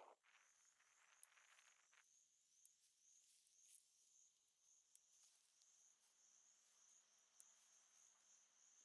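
Very faint chorus of insects trilling: a steady, finely pulsing high-pitched trill with a soft rushing sound in the first two seconds.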